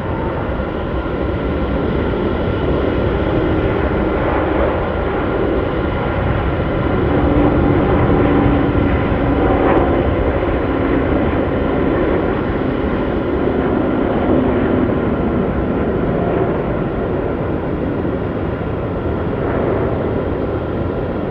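Airliner engines running loud as an aircraft passes close by: a broad roar with steady whining tones over it. It swells to its loudest about a third of the way through, then slowly fades.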